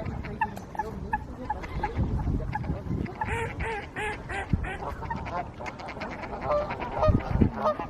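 Water birds calling, mostly goose honks: a run of short repeated calls, then a burst of several overlapping calls about three seconds in, with scattered calls after.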